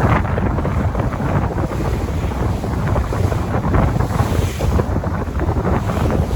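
Sea waves washing, with strong wind buffeting the microphone in a heavy low rumble. The noise is steady throughout, with a surge of surf hiss about four seconds in.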